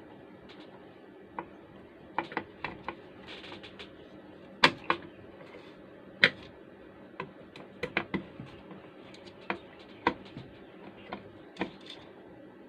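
Irregular small clicks and taps of hand work tightening a loose part on a transistor power amplifier, with two sharper knocks, one about four and a half seconds in and one about six seconds in.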